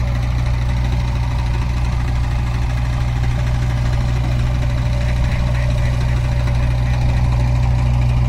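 Heavy diesel engine idling steadily, a deep even hum.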